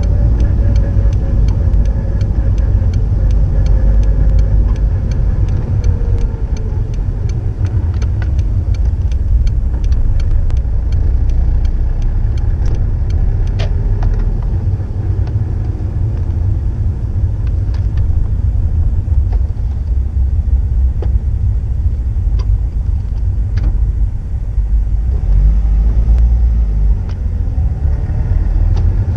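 Subaru GDB Impreza STI's EJ20 turbocharged flat-four running through an STI genome muffler: a deep exhaust rumble whose pitch slowly falls over several seconds and later rises again.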